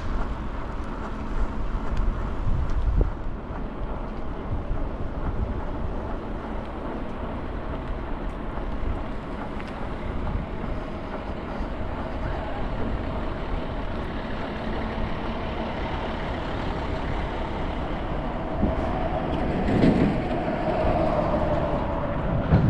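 Street traffic and wind rumble heard from a moving scooter, with a steady hum running underneath. About twenty seconds in a vehicle swells louder close by, and there is a short knock at the very end.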